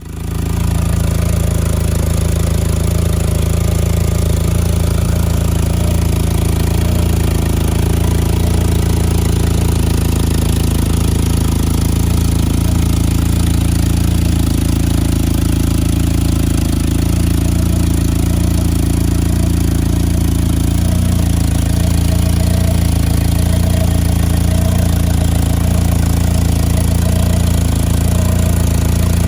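1984 VW Rabbit GTI's 1.8-litre four-cylinder engine idling steadily.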